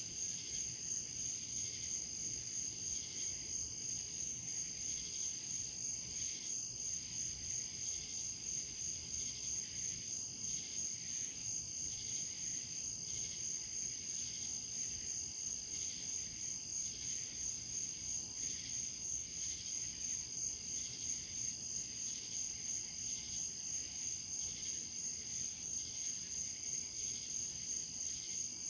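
Insects chirping in a steady, high-pitched, evenly pulsing trill, with a faint low background hiss.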